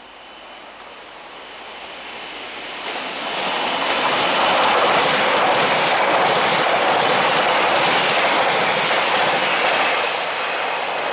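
Northern class 331 CAF Civity electric multiple unit, two units coupled, running through the station without stopping. The noise of wheels on rails and the passing train builds over the first few seconds, holds loud and steady, then eases slightly near the end.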